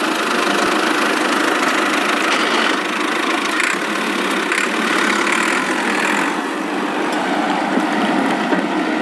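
Steady engine-like running noise, as of an engine idling.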